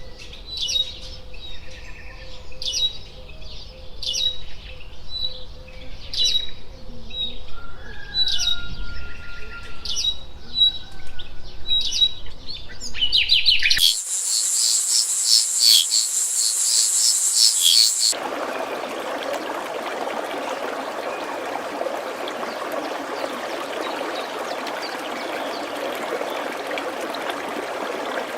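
Birds chirping in repeated short high notes, with a lower whistled glide in the middle. About 14 s in, this switches to a dense, very high chirping for about four seconds. Then it cuts to steady rushing stream water.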